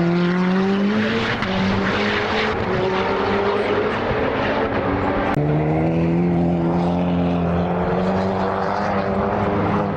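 Modified time-attack race car's engine at high revs under hard acceleration, its pitch climbing. About five seconds in the pitch drops suddenly as it shifts up a gear, then climbs again.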